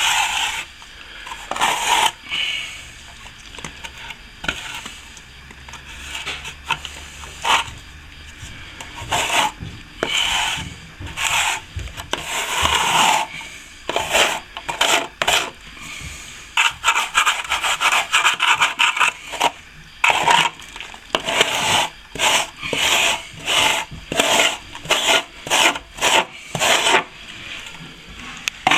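A hand tool scraping and rubbing back a setting sand-and-plaster patch in repeated strokes, sparse at first and then quick and regular through the second half.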